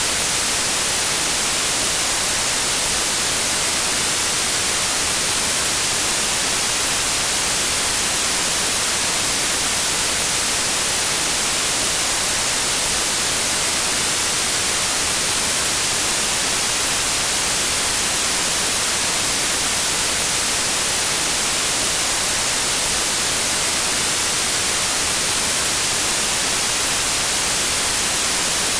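Steady white noise, an even hiss that stays the same throughout.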